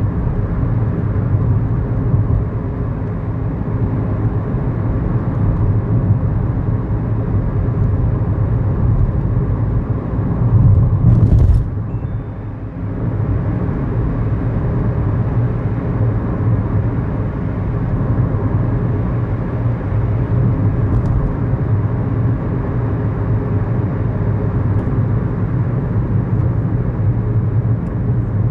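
Small car's engine and road noise heard from inside the cabin, a steady low drone. About eleven seconds in it swells briefly, then drops off suddenly before settling back to the steady drone.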